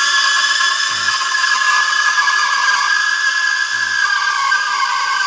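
Espresso machine steam wand heating milk in a jug: a loud, steady, high-pitched hiss with a held whistling tone.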